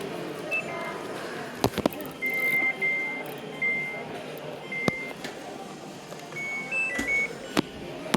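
Electronic beeps from a dishwasher's control panel as its buttons are pressed, about eight short single beeps and two-note chirps with a few clicks between them; the child lock is on, so the presses change no settings.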